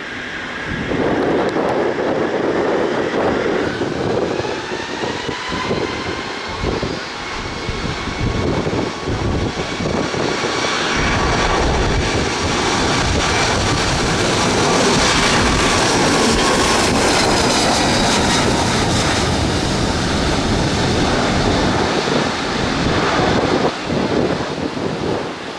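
Jet airliner passing close by: a loud engine whine with tones that shift in pitch, growing to its loudest a little past the middle and then easing off.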